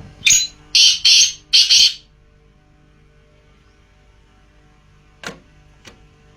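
Black francolin (kala teetar) calling: a phrase of about four loud, high-pitched notes in the first two seconds. Two short, sharp clicks come later, over a faint steady electrical hum.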